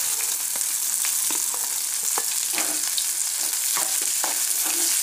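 Onions, curry leaves and green chillies sizzling in hot oil in a pan as a spatula stirs them: a steady hiss with scattered sharp clicks.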